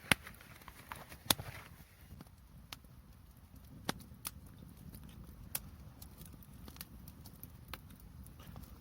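Scattered sharp crackles and pops at irregular intervals over a low steady rumble.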